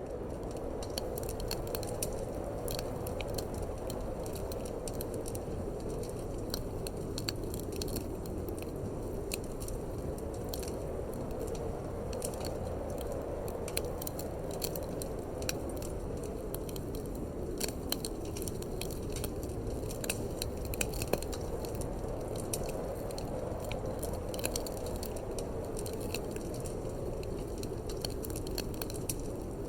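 Wood fire crackling in a fireplace, with frequent small sharp pops and snaps, over a steady rush of wind that slowly swells and eases.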